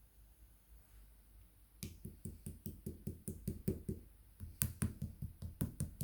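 A rapid series of light knocks or taps, about five a second, starting about two seconds in, with a brief pause near the middle.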